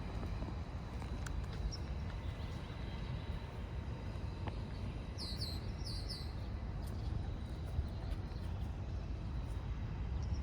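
Outdoor ambience: a steady low rumble, with a bird giving a quick run of about four high, falling chirps about five seconds in.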